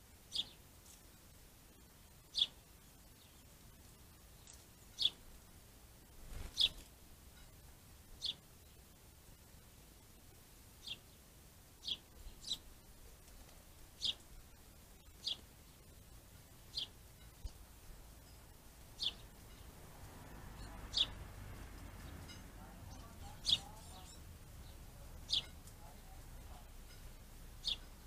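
A small bird calling over and over, one short, sharp, slightly falling note every one to two seconds.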